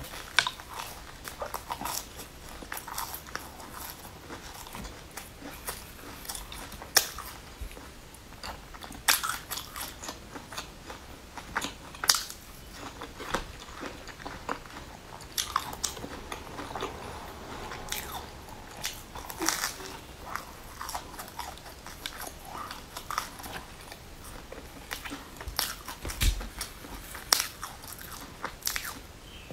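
Close-up chewing of a crisp-crusted fried pastry: irregular crunching bites and chewing, with sharp louder crunches every few seconds.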